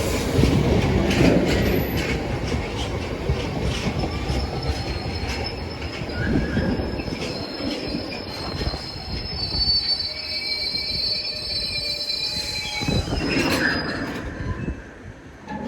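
A train rolling past, its wheels clicking over rail joints and squealing on the rails, with high-pitched squeals in the middle and later part.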